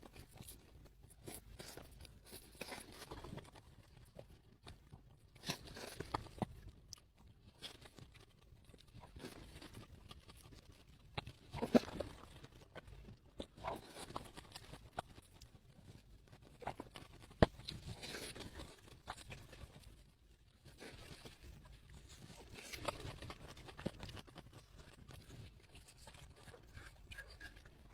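Crunchy food being bitten and chewed close to the microphone, an irregular crackling crunch with occasional sharp cracks, two of them standing out about twelve and seventeen seconds in.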